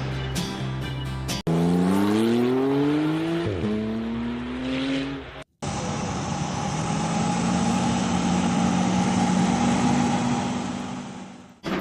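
A car engine accelerating, its pitch rising for a few seconds, then cutting off abruptly; after a brief gap a steady engine drone runs and fades away near the end. Drum-backed music plays briefly at the start, before a hard cut.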